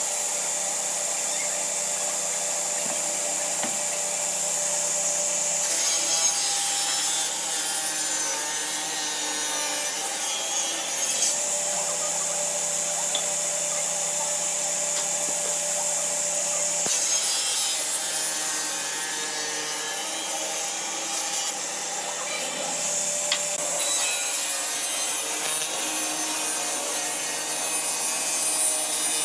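Tools sawing and rasping wood, a steady scraping noise that changes character every few seconds.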